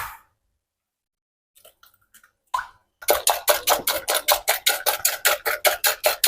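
A quick, even run of sharp strikes, about five or six a second, starting about three seconds in after a few lighter clicks and a single knock.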